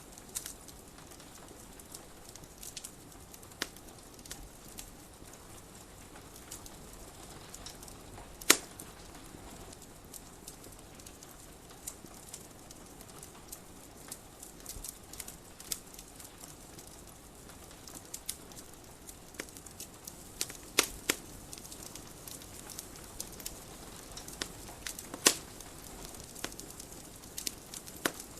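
Wood fire crackling in a fireplace: scattered sharp pops and snaps over a steady soft hiss, with the loudest pops about eight seconds in, around twenty-one seconds in, and near twenty-five seconds in.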